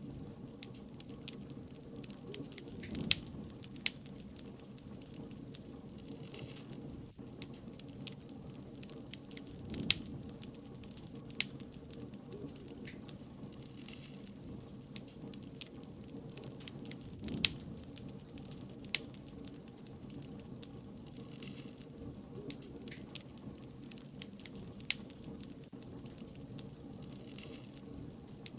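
Bonfire crackling: irregular sharp pops and snaps, a loud one every second or two, over a steady low rush of burning wood.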